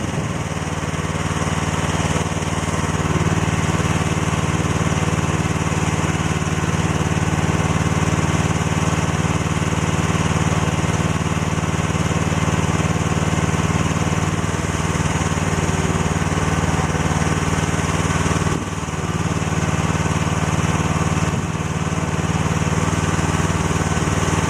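Excavator engine running steadily, dipping briefly in level about eighteen seconds in and again near twenty-one seconds.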